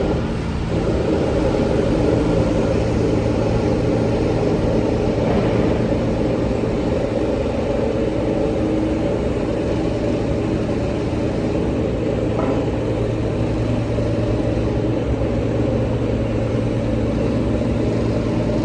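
Liebherr T 264 mining dump truck running as it moves, a steady low mechanical drone with a constant hum.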